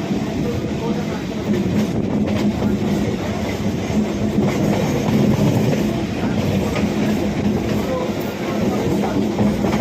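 EMU suburban electric train running along the track: a steady rumble with a constant low hum.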